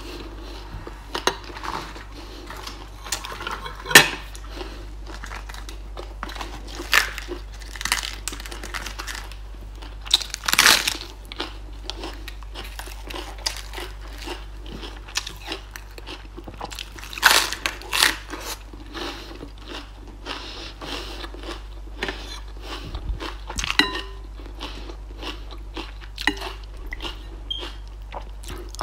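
Close-up eating sounds: crunchy chewing and biting, with crisp romaine lettuce among the food. Sharp clicks and clinks come now and then, the loudest about four seconds in and around ten and seventeen seconds in.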